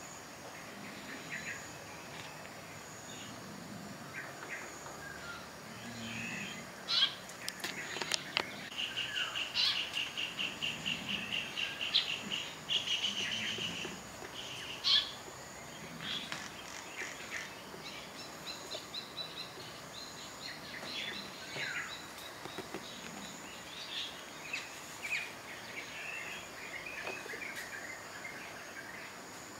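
Songbirds chirping and calling, with a fast trill of rapidly repeated notes about a third of the way in, over a faint steady high hum.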